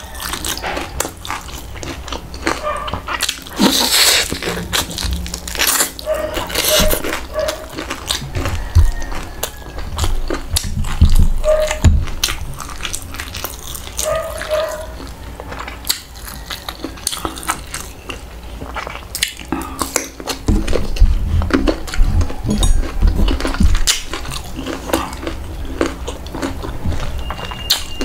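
Close-up eating sounds: biting and chewing crispy fried pork tail and green mango, with many short crunches and mouth clicks.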